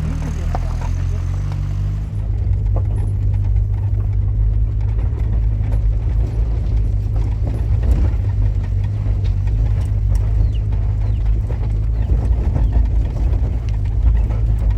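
Motor vehicle engine running steadily with a low rumble, stepping up in level about two seconds in.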